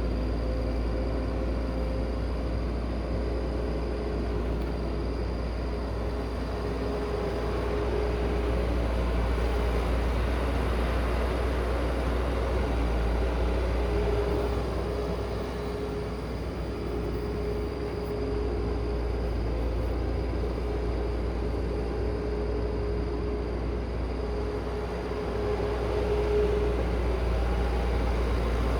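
Heavy machine's engine running with a steady low rumble, and a higher steady whine that comes and goes.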